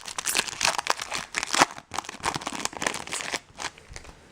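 The wrapper of a 2012 Bowman Chrome baseball card pack crinkling as it is torn open and handled. It is a quick run of crackles that dies down about three and a half seconds in.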